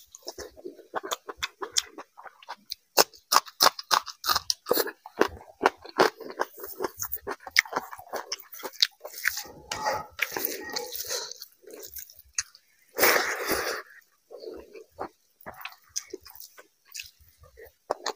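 Close-up mouth sounds of a man eating rice and fish curry by hand: wet chewing with many quick lip smacks and clicks, and rice being squished with gravy by hand. A louder rushing noise lasting about a second comes about two-thirds of the way through.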